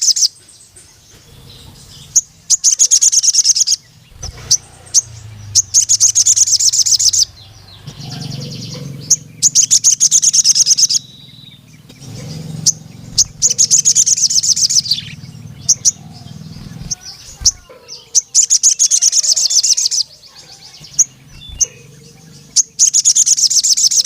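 Male sogon, a sunbird, singing in full voice: phrases of very rapid, high 'cuit cuit' notes, each about one and a half to two seconds long, repeated about every three seconds. It is a territorial call to a rival male.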